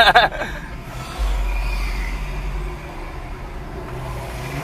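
Car engine running with a low, steady drone that steps up in level about a second in.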